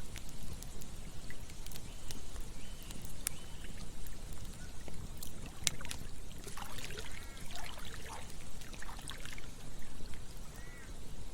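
Campfire crackling with scattered sharp pops over a steady rush of flowing river water. A run of short chirping calls comes in a little past the middle.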